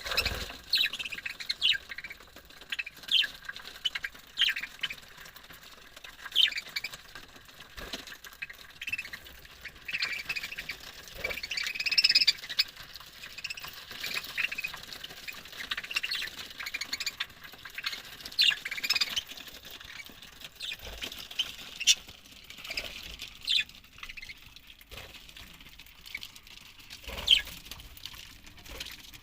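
A colony of budgerigars chattering, many short chirps and squawks overlapping throughout, with a few sharp taps among them.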